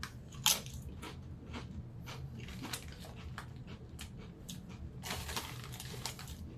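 A person biting and chewing dill-pickle-flavoured potato chips: a string of short crunches, with a sharp bite about half a second in and a denser run of crunching about five seconds in.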